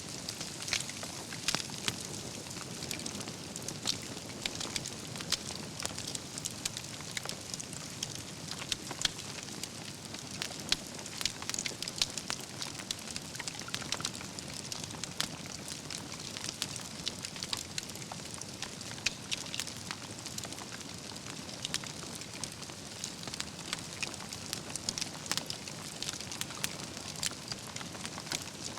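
Wood campfire burning: logs crackling and popping with many sharp irregular snaps over a steady low rush of flame.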